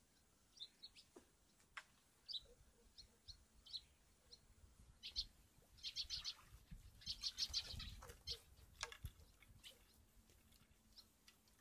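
Small songbirds chirping faintly: short high calls scattered through, with quicker runs of repeated notes about six and seven seconds in.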